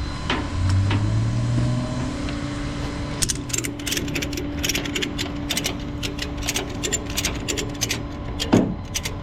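Ratchet tie-down straps on a tow truck being cranked tight, a fast run of sharp ratchet clicks several times a second, over the steady hum of the running truck.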